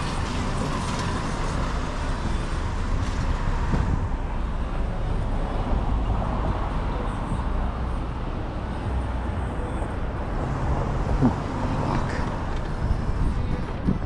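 Steady street traffic noise with a low rumble, and no speech.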